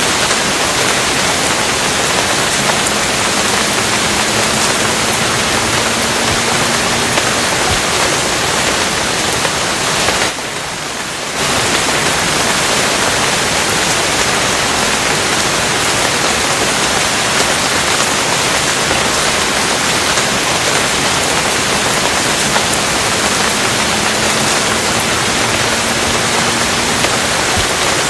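Steady, dense rain hiss. The level dips briefly for about a second, roughly ten seconds in.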